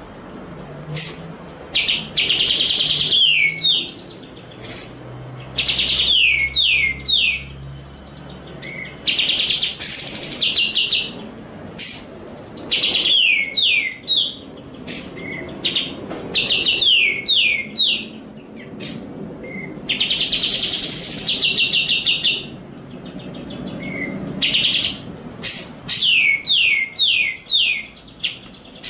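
Eurasian tree sparrow ('burung gereja') song with pauses, given as phrases every few seconds. Each phrase is a fast, buzzy trill followed by a quick run of falling notes.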